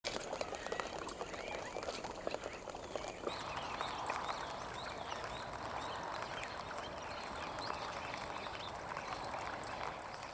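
Steady rain with dense pattering ticks, then after a cut about three seconds in, many short high chirping bird calls over the rain.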